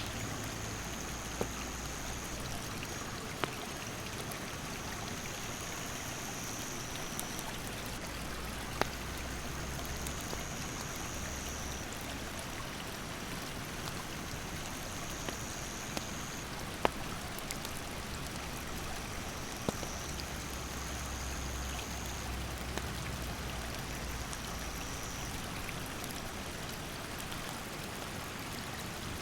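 Mountain stream rushing over rocks as a steady hiss, with a few sharp pops from a wood campfire crackling. A high steady tone comes and goes in stretches of a few seconds.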